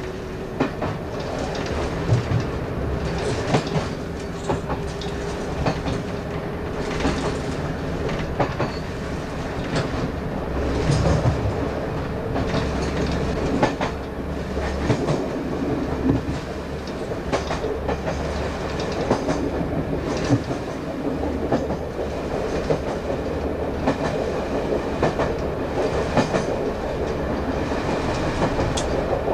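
Class 117 diesel multiple unit running at speed, heard from the cab: a steady low running noise with the wheels clicking over rail joints again and again.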